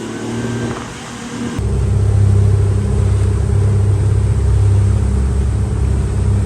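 A vehicle engine running steadily with a loud, even low hum, which starts abruptly about one and a half seconds in.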